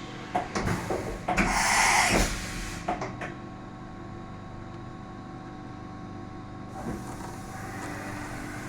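CNC milling machine running with a steady hum, with a few sharp knocks and a loud hissing burst lasting under a second about one and a half seconds in. A higher hiss joins the hum about seven seconds in.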